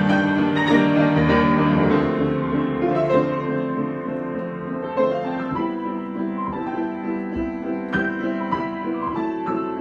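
Piano playing an improvisation: sustained chords with notes struck over them, a little softer after about two seconds.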